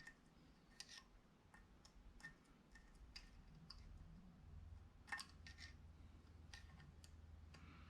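Faint, scattered small metallic clicks and ticks from hand work on a cylinder head's valve springs and keepers, irregular and about a dozen in all. A faint low hum comes in about three seconds in.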